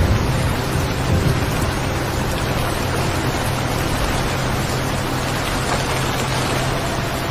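Recorded steady rain, an even hiss of falling rain with a steady low rumble underneath.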